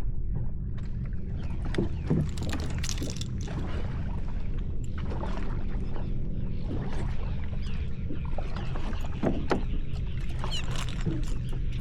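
Water splashing and sloshing against a kayak's hull, with scattered small knocks and splashes over a steady low rumble.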